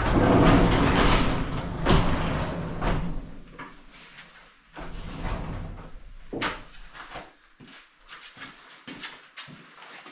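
A large door sliding or rolling open with a rumble for about three seconds, followed by scattered knocks and clicks.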